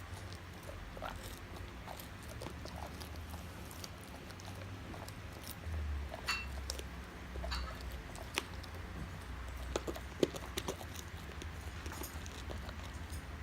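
A Great Pyrenees chewing a dried horse Achilles tendon treat: irregular crunching and clicking bites.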